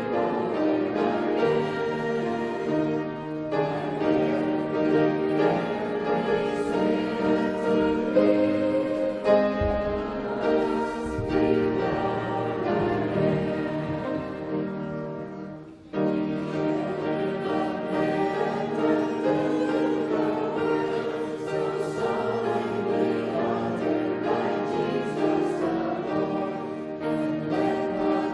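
Group of voices singing a hymn together with instrumental accompaniment, with a short pause between phrases about sixteen seconds in.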